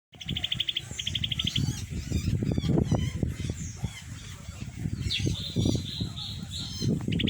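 Small songbirds calling: two quick pulsed trills near the start and another near the end, with high chirps scattered between, over a run of irregular low thumps and flutters.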